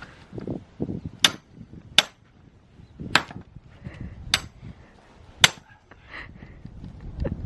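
Axe striking oak logs being split for firewood: five sharp cracks, roughly a second apart.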